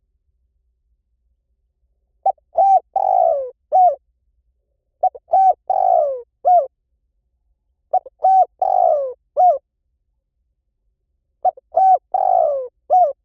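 Spotted dove song: four cooing phrases of about five notes each, repeated identically about every three seconds with silence between them.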